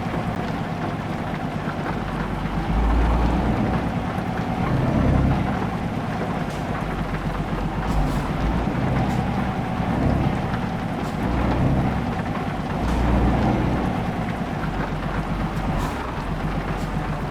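Heavy truck's diesel engine running, its revs rising and falling in swells every couple of seconds, with a few short clicks over it.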